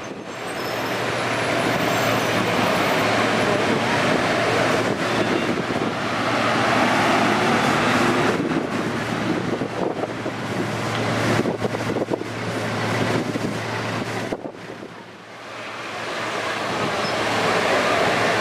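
Road traffic: cars driving past on a street with a steady engine hum, swelling and easing several times. There is wind on the microphone.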